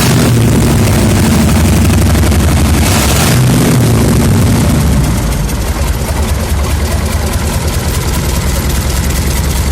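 MAZ truck diesel engine, run on the ground outside the truck, running loud with a steady firing rhythm. It picks up briefly about three seconds in, then settles to a steady idle from about five seconds in.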